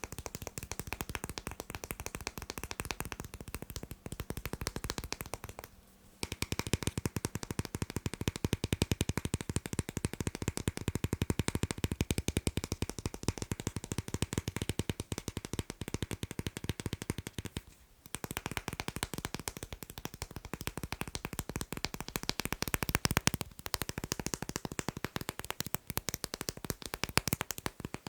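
Fast tapping on magnets: a dense run of quick, sharp clicks, broken by brief pauses about six seconds in and again about eighteen seconds in.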